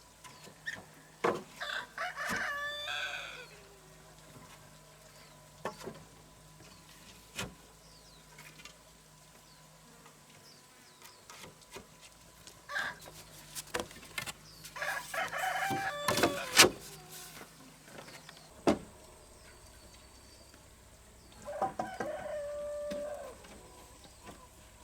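Rooster crowing three times, each call ending in a falling tail, with scattered sharp knocks and clicks between the crows.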